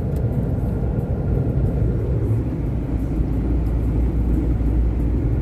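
Iveco Stralis truck's diesel engine and road noise heard inside the cab while driving: a steady low drone.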